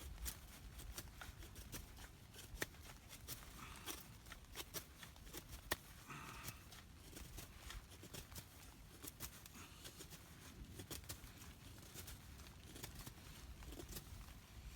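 Faint knife work on wet wood for feather sticks: scattered sharp ticks and a brief scrape about six seconds in.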